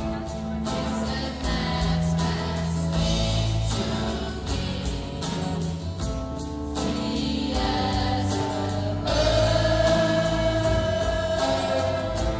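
Music: a choir singing long held notes over a steady beat.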